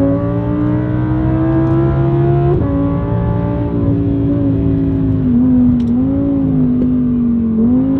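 Audi R8's 5.2-litre V10 with an aftermarket ASG valve exhaust, heard from inside the cabin, revving up under hard acceleration for about two and a half seconds. The pitch then drops sharply at an upshift, and the engine holds a steadier note with brief dips about halfway through and near the end.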